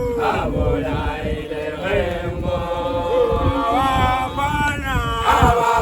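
A group of men singing a chant together, with long held notes in several overlapping voices.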